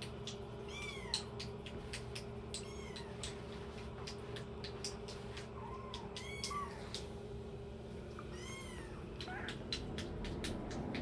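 Kittens mewing: short, high-pitched, arching cries every few seconds, with many light clicks and taps in between.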